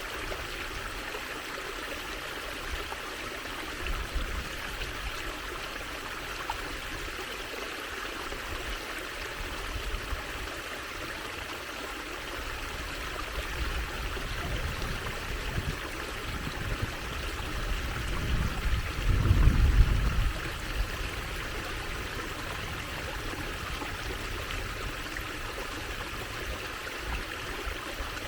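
Water trickling and flowing steadily, like a small stream. About nineteen seconds in, a low rumble swells for a couple of seconds and then fades.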